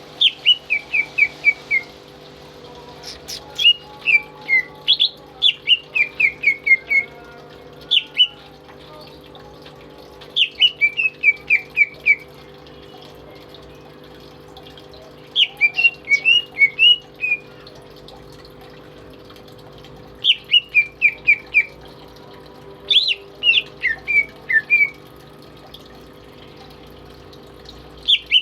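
A cucak ijo (green leafbird) singing in bursts of quick, falling chirps, five to eight notes each, repeated every few seconds with pauses between, over a steady low hum.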